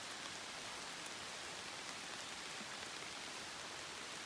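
Steady rain falling on the leaves, an even hiss.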